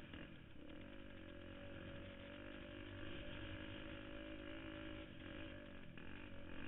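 KTM 250XCF dirt bike's single-cylinder four-stroke engine running at a fairly steady pitch that rises and falls slightly, with a few knocks near the end.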